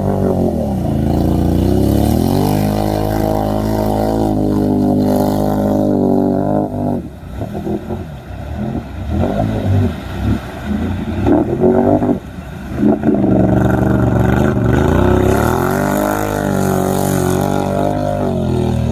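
Off-road truck engine revving hard, its pitch climbing and falling again and again. Through the middle stretch the sound turns choppy and uneven before it settles into steady revving again.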